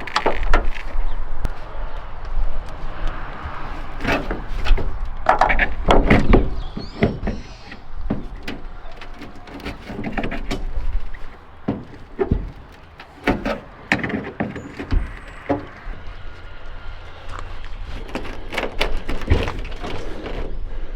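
Irregular knocks and clunks from hand work taking apart a 1968 Chevrolet C10 donor truck, over a steady low rumble.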